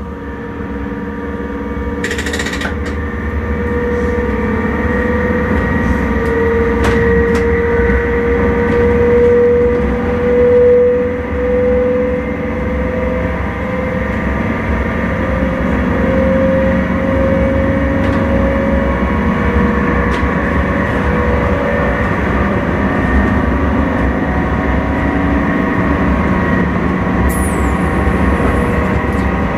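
Intercity electric train heard from inside the driver's cab while under way: a steady rumble of running gear with a motor whine that slowly rises in pitch as the train gathers speed. A short hiss about two seconds in and a brief falling high-pitched tone near the end.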